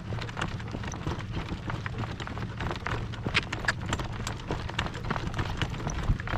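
Horse's hooves striking the ground in a run of irregular knocks under a rider, over a steady low rumble of wind on the microphone.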